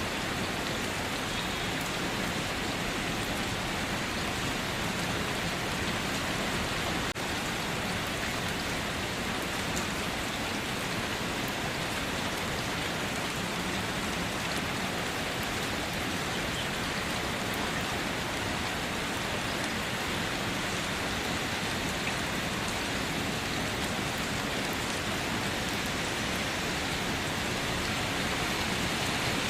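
Steady rain falling, an even hiss with many scattered drops ticking through it.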